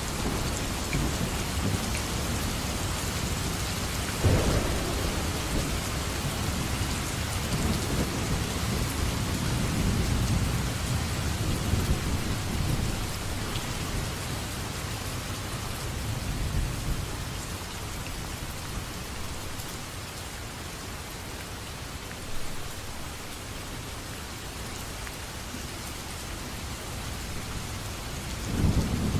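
Steady rain with low rolls of thunder swelling several times: a thunderstorm ambience track.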